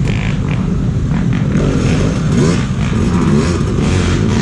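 Hard enduro dirt bike engines revving, the pitch rising and falling repeatedly as the throttle is worked over rough ground.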